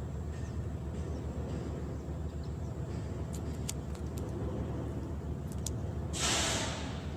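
Steady low engine rumble, with a few light clicks in the middle and a short hissing rush about six seconds in.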